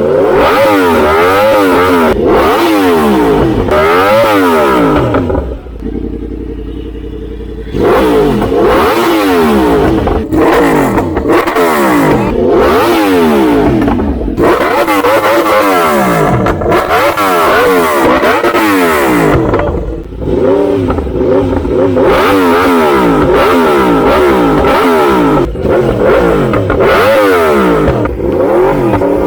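Yamaha R1M's 998 cc crossplane inline-four engine being revved in repeated quick throttle blips, each a fast rise in pitch and a slower fall. About a quarter of the way in it settles briefly to a quieter, steady idle before the blips resume.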